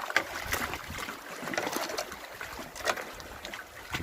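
Water splashing around a kayak: a handful of irregular splashes and drips over a low, steady wash of water.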